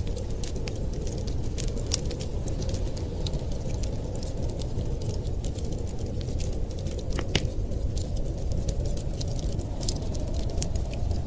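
Wood fire crackling, with irregular sharp pops and snaps, one louder pop about seven seconds in. Under it runs a steady low rumble like storm wind.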